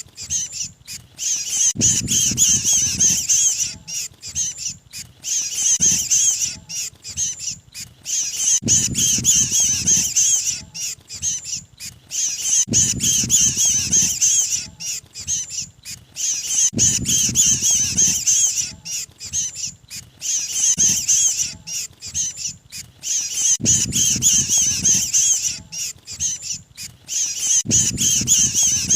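Lure recording of a trapped mantenan bird's distress calls: dense, rapid, high-pitched chattering in bursts that repeat about every four seconds, each burst with a low rumble under it.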